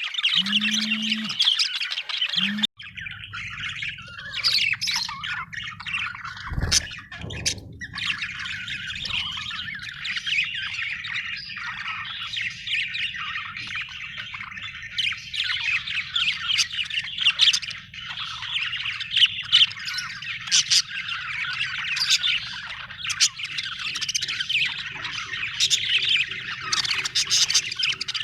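A flock of budgerigars chattering, with many rapid chirps and squawks overlapping, and a sudden break about three seconds in.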